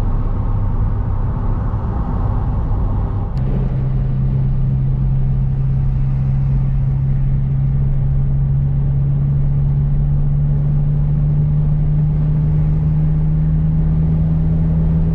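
A car engine running on the move: a Honda Jazz at first, then, after a click about three seconds in, a steadier engine drone that slowly climbs in pitch, as the car gathers speed.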